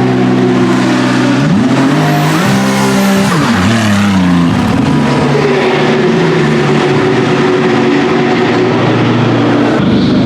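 Several race car engines at speed going past, their pitch stepping with gear changes; about three seconds in one car passes close with a sharp drop in pitch, and another engine holds a steady note after it.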